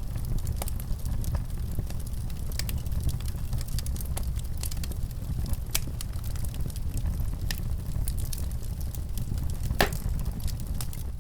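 Wood fire burning in a fireplace: a steady low rumble with scattered crackles and small pops, and one louder pop near the end.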